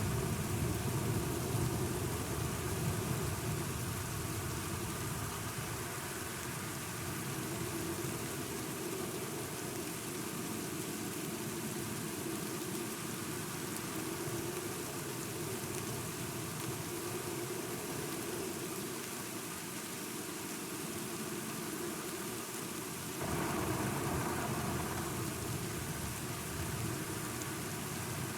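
Steady heavy rain with a low thunder rumble that fades over the first few seconds. About 23 seconds in, the rain noise suddenly gets louder and brighter.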